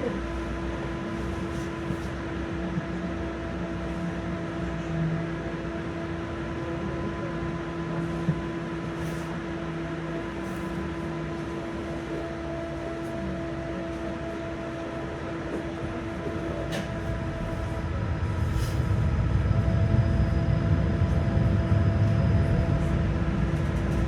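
Tram interior: a steady electrical hum over the low rumble of wheels on the rails, with a few faint clicks. The rumble grows louder in the last several seconds.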